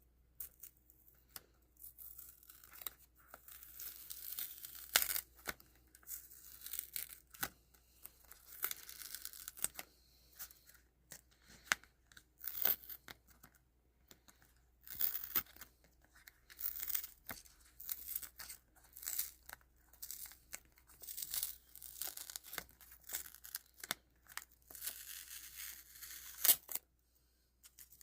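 Irregular bursts of tearing and crinkling with sharp clicks in between, close up.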